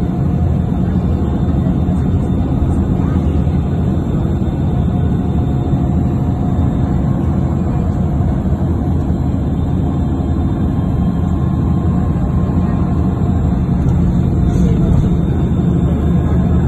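Steady low engine drone of a passenger ferry under way, heard from on board.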